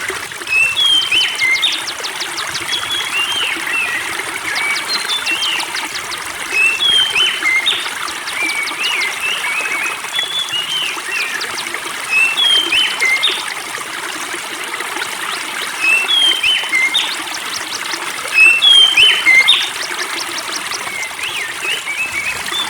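Spring water trickling steadily while a songbird sings short, swooping whistled notes in phrases that swell every few seconds, mixed with quick ticking trills.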